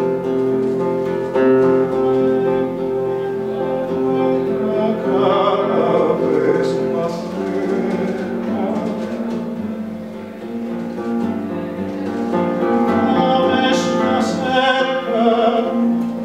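Song performed live: a voice singing long held notes with vibrato over guitar accompaniment.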